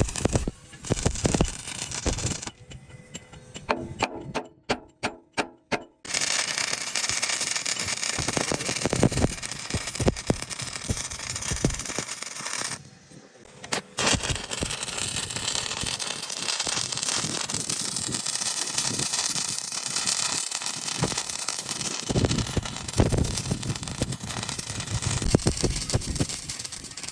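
Electric arc welding on an excavator boom: a steady frying crackle in long runs, with a short pause in the middle. Early on the crackle stops for a few seconds and a series of sharp taps is heard instead.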